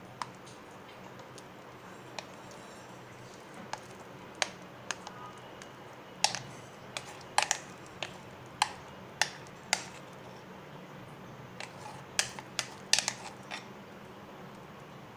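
Scattered sharp clicks and taps of a kitchen utensil knocking and scraping against the bowl and metal cake tin as cake batter is poured into the tin, irregular and most frequent in the middle of the stretch.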